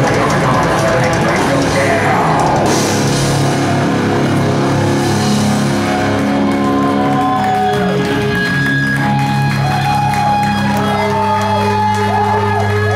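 Heavy metal band playing live and loud: distorted guitars, bass and drums, with some vocals. About two thirds of the way in, the playing gives way to a long held low chord with wavering high-pitched tones over it, which cuts off at the end.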